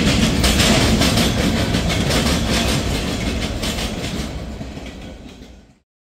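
Freight cars of a CSX mixed freight train rolling past, a steady rumble with wheels clicking over the rail joints. The sound fades away and cuts off near the end.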